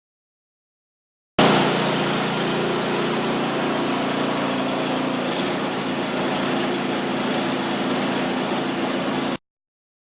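Two-stage snow blower's small engine running steadily, cutting in suddenly about a second and a half in and cutting off suddenly near the end, with a slight change in tone about halfway through.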